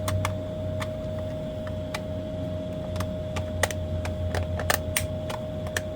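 Irregular small clicks and taps of a screwdriver and screws against the metal housing of an LED grow light as its cover is fitted back on, busiest a little past the middle, over a steady low hum and a faint steady tone.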